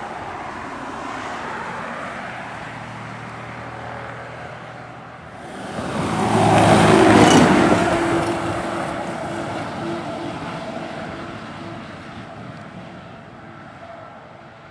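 Road traffic on an uphill main road: a vehicle passes close, its noise swelling to a peak about seven seconds in and then slowly fading, over a steady engine hum.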